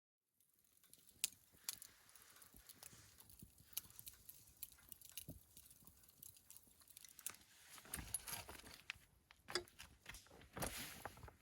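Quiet rustling with scattered light clicks and clinks, a few of them sharper and louder.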